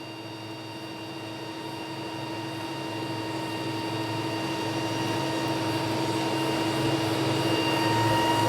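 Train approaching: a steady drone with several held whining tones, growing steadily louder.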